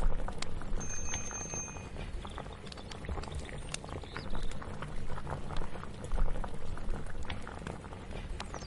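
Kitchen ambience: a pot bubbling on the boil under a low rumble, with many scattered light clicks and knocks, and a faint high tone lasting about a second near the start.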